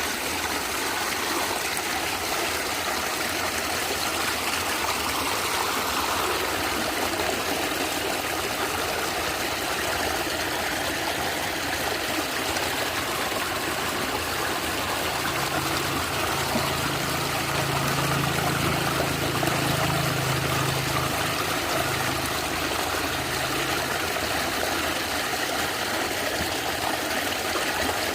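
Stream water flowing and gurgling steadily, with a faint low hum in the middle stretch.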